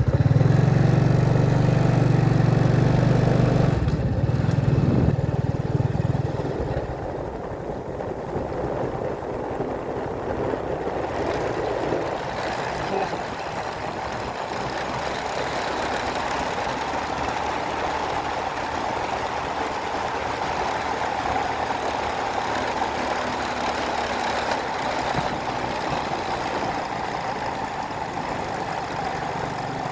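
A motor vehicle's engine running: a loud low hum for about the first six seconds, then a steadier, more even running noise.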